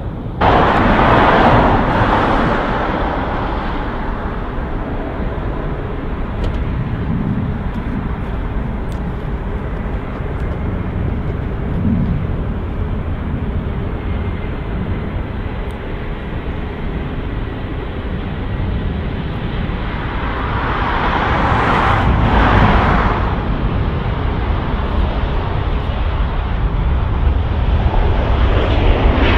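Steady outdoor rumble of road traffic and aircraft noise, with a vehicle passing close about two seconds in and another around twenty-two seconds in, each rising and falling in hiss. The engine noise of an airliner on landing approach builds near the end.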